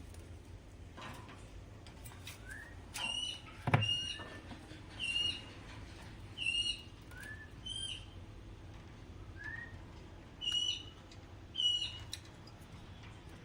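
Alexandrine parrot calling: seven short, high-pitched calls spaced about a second apart, with a few softer rising chirps in between. A single sharp knock sounds about four seconds in.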